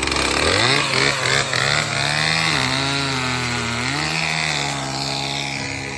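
Chainsaw running hard while cutting firewood, its engine pitch rising about half a second in, sagging briefly in the middle and climbing again before easing off near the end.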